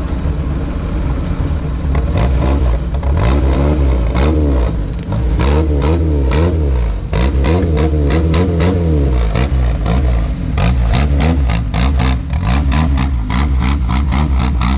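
Off-road vehicle engine revving up and falling back again and again under load, over a steady low drone. It comes with many sharp knocks and clatters, which grow thicker in the second half.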